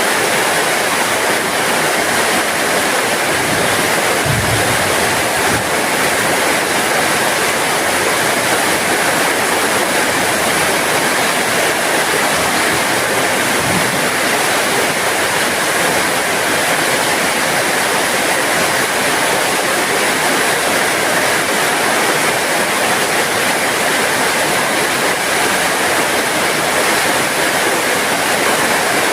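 Heavy rain falling in a steady, dense hiss, with a couple of faint low thuds about four and fourteen seconds in.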